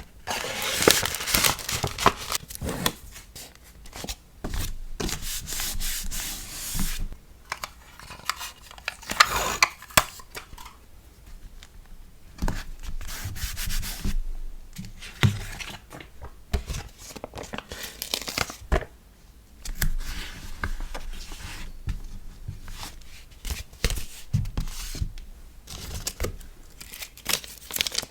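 Hands handling paper and plastic packing materials: irregular rustling, rubbing and crinkling in short stretches, with a few sharp light taps.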